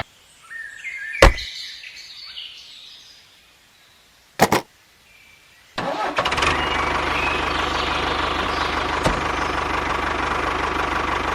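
A few sharp clicks, then about six seconds in an engine starts up suddenly and runs steadily with a low hum.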